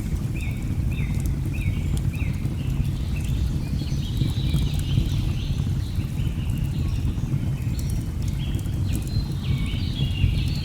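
Rainforest ambience: a steady low rush of falling water under a run of short, high, repeated animal calls, each dropping in pitch, about two a second at first and then overlapping more thickly. Faint crackling of a log fire ticks through it.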